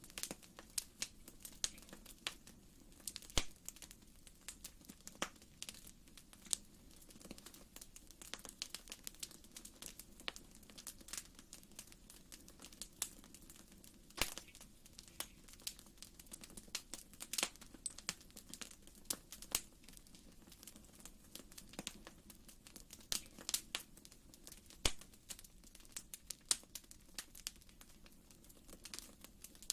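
Fireplace fire crackling: irregular small pops and snaps, several a second, over a faint steady background.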